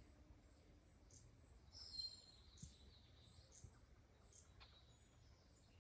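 Near silence with faint, high bird chirps scattered throughout, the clearest about two seconds in, over a low background rumble.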